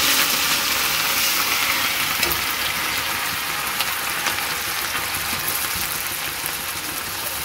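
Onion frying in hot oil in a steel kadhai: a steady sizzling hiss that eases a little over the seconds. A steel spatula stirring it taps against the pan now and then.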